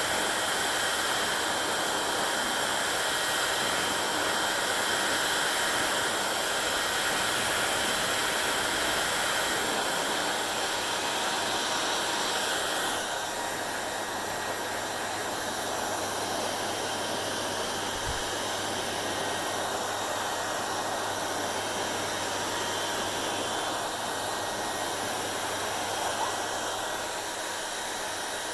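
Hair dryer blowing steadily, a loud even rushing hiss; about halfway through it drops a little in loudness and its high hiss softens.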